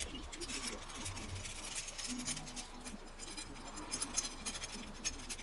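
Irregular small clicks and scrapes of metal gearbox parts and hand tools being handled during work on a T50 gearbox mainshaft and its bearing puller.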